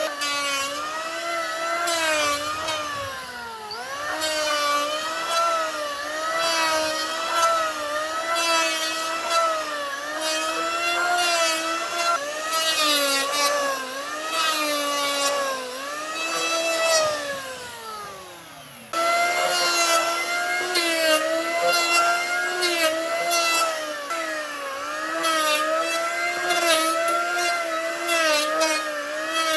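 Electric power tool working wood, its motor whine wavering and sagging in pitch under load, with a scatter of short clicks and rasps from the cut. The motor winds down briefly a few seconds in, then again more deeply toward the middle, and jumps straight back to full speed.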